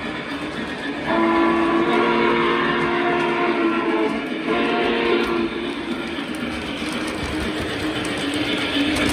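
Steam whistle from the onboard sound system of a Lionel Legacy Union Pacific FEF-3 #844 model locomotive, heard through its small speaker: a long blast about a second in, then a short one. The locomotive's steady running sound plays throughout.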